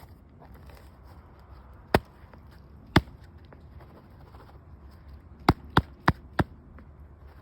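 Six sharp knocks: two about a second apart, then four more in quick succession, roughly three a second.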